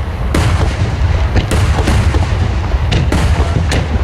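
Aerial fireworks bursting in quick succession: about half a dozen sharp cracks over a constant low rumble of booms.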